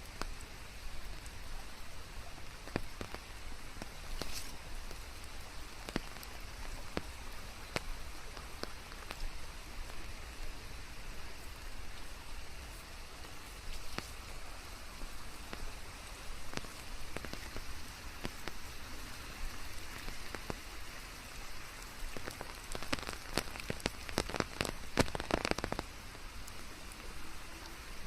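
Steady rain: an even hiss of falling rain with many separate drop hits scattered through it, and a run of louder, closer drops near the end.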